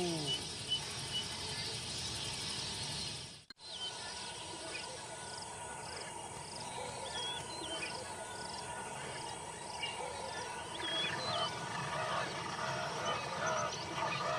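Outdoor savanna ambience at dawn: birds chirping, a steady hum of insects, and faint animal calls near the end.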